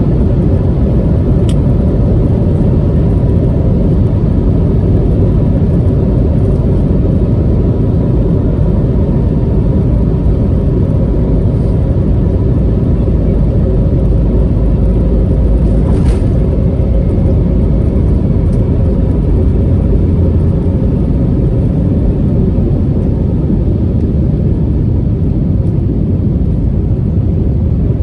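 Steady jet noise inside the cabin of an Airbus A320neo (A320-271N): the even roar of its Pratt & Whitney PW1100G geared turbofans and airflow, with a low rumble underneath and a faint steady hum on top.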